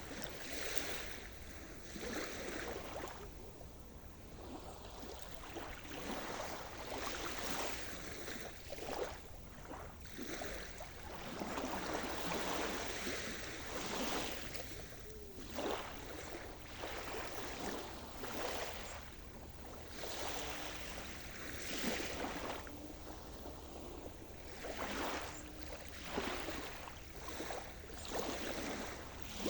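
Sea surf: small waves breaking and washing on the shore, in irregular splashy surges every second or two.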